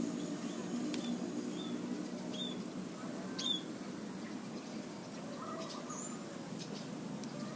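Small wild birds giving short, high chirps and whistles, scattered singly every second or so, with the sharpest pair of notes about three and a half seconds in, over a steady low rumble.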